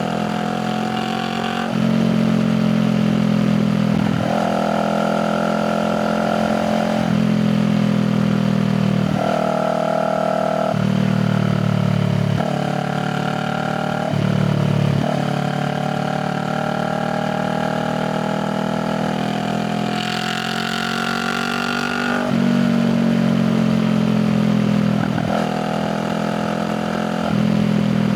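Honda Rebel 500's parallel-twin engine and exhaust under way, the engine note stepping up and down with throttle changes every few seconds, with some stretches slowly climbing in pitch as the bike accelerates.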